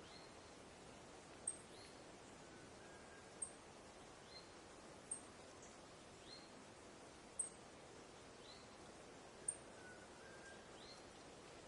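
Quiet forest ambience: a soft steady hiss of wind in the trees, with a bird giving short, very high, thin chirps about every two seconds, and a soft whistle twice.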